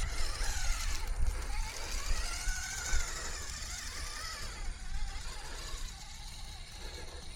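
Small electric motor of an Axial SCX24 micro RC rock crawler whining as it drives over rocks, its pitch rising and falling with the throttle.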